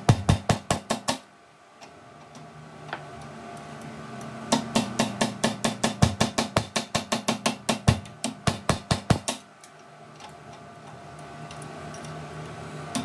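Rapid hammer blows on metal, about five a second, in runs: a short burst at the start, a long run of about five seconds in the middle, and another starting at the end. A steady machine hum sits underneath.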